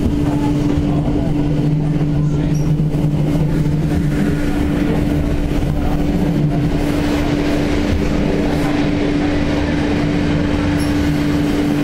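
Electric passenger train running at speed, heard from inside the carriage: a steady hum over continuous wheel-and-track rumble, with the hiss growing a little brighter about halfway through.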